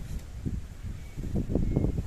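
Gusty wind buffeting the microphone: an uneven low rumble that swells about one and a half seconds in.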